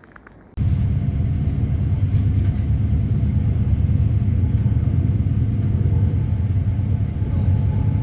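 Steady low rumble of a vehicle in motion, starting abruptly about half a second in.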